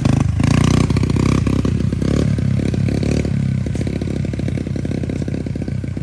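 Pit bike engine revving under throttle as the bike pulls away in first gear, growing steadily fainter as it moves off.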